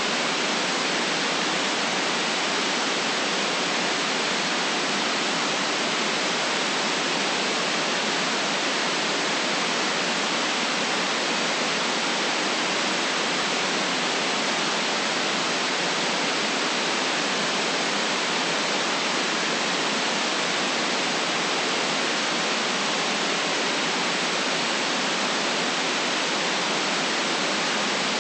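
Steady white noise: an even, unchanging hiss with no rhythm or events, cut off below the deep bass and above the highest treble.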